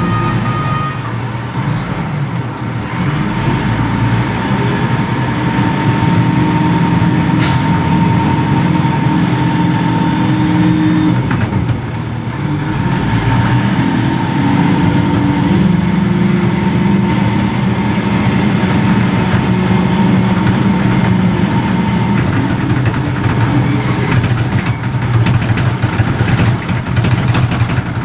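Diesel engine of a container reach stacker running under work, its engine speed rising and falling, with a brief drop about twelve seconds in.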